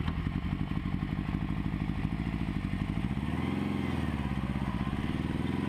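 Honda motorcycle engine and exhaust running under way, with an even, pulsing beat. About halfway through, its pitch rises a little and then falls back.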